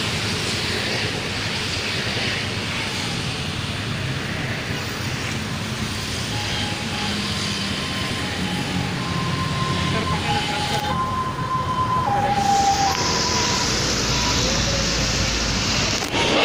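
Electric KRL commuter train approaching on the track, its rumble growing louder over the last few seconds. In the middle, a faint two-pitch tone alternates high and low several times, like a siren.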